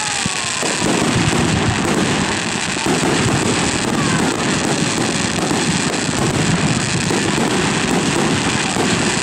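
Aerial fireworks shells launching and bursting in quick succession, making a dense, continuous rumble of explosions, with a few sharp bangs in the first second.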